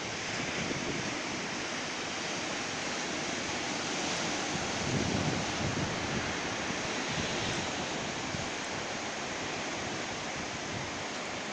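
Ocean surf washing on the shore, a steady rush that swells slightly now and then, with some wind on the microphone.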